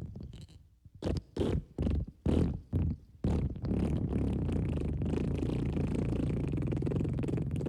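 Fart sound effects: a quick run of about six short farts, then a long, continuous low fart from about three seconds in.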